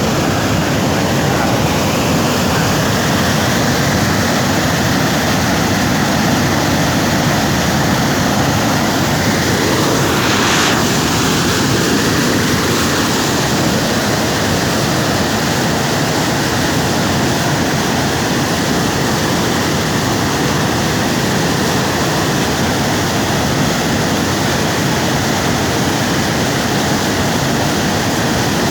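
Water pouring from a dam, a loud, steady rush.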